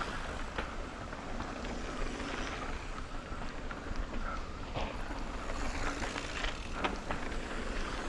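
Electric mountain bike riding down a dirt bike-park trail: wind rumbling on the microphone over steady tyre noise, with scattered clicks and knocks from the bike rattling over bumps.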